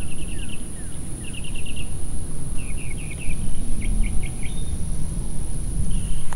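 Birds singing: four quick runs of short, repeated chirps, over a steady high-pitched insect drone. Low wind rumble on the microphone is the loudest sound.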